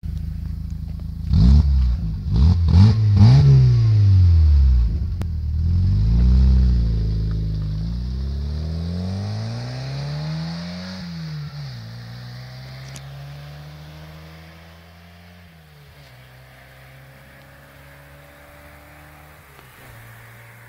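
Volkswagen Golf IV engine heard through a stainless-steel duplex exhaust: idling, blipped three times in quick succession, then revved up and let fall back twice, before settling to a steady idle.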